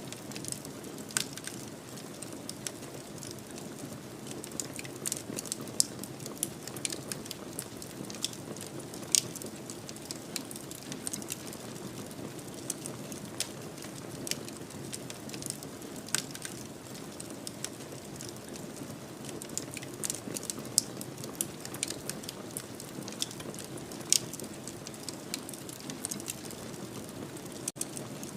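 Wood fire crackling in a fireplace: irregular sharp pops and snaps, a few much louder than the rest, over a steady low rush of burning.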